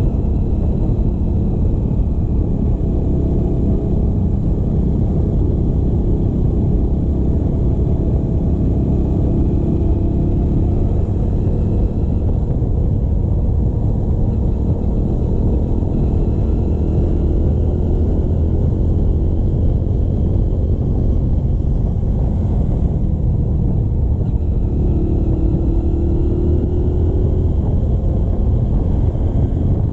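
Motorcycle engine running while riding, under a heavy low rumble of wind and road noise, its pitch rising and falling slightly as the throttle changes.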